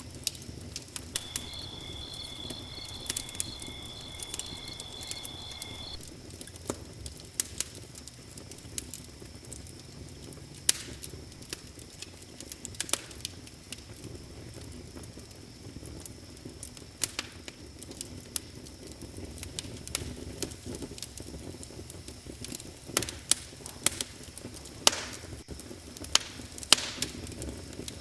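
Wood fire burning in a fireplace, crackling with frequent sharp pops and snaps over a low, steady rumble of flames. A steady high trill sounds for a few seconds near the start.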